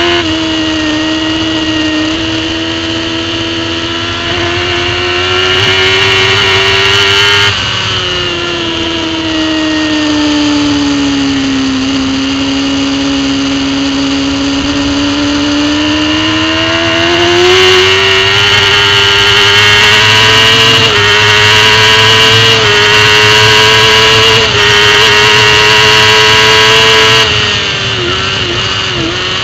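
Racing superbike engine heard from an on-board camera, its pitch sinking and climbing as the rider works the throttle, with abrupt steps in pitch. Near the end it drops in loudness, followed by a few quick wobbles in pitch.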